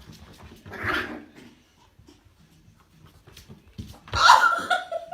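A dog vocalizing: a short breathy huff about a second in, then a louder drawn-out pitched call near the end.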